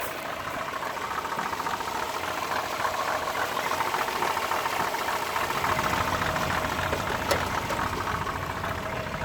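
Riley 1.5-litre four-cylinder engine running steadily at idle, sounding okay after a lumpy-running fault that has apparently cured itself, cause unknown (dirty carburettor or ignition suspected). About halfway through it grows a little louder and deeper, and there is one brief click near the end.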